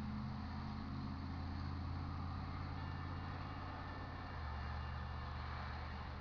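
Diesel-electric freight locomotives (a GE ES44AC leading, with EMD SD70-series units) running past with a steady low engine drone. The engine note changes about four seconds in.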